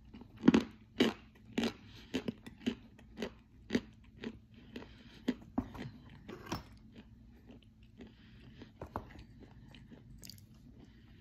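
A person chewing crunchy edible clay chalk: a run of sharp crunches, about two a second, that grow softer and sparser over the last few seconds.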